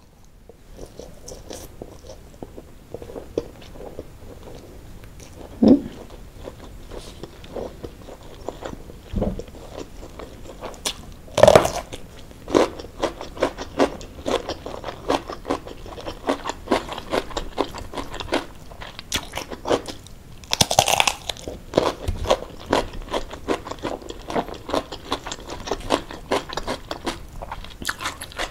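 Close-miked eating: a person chewing and crunching mouthfuls of rice with anchovy and shredded-chicken sambal. There are steady small crunches and wet mouth clicks, with a few louder sharp cracks scattered through.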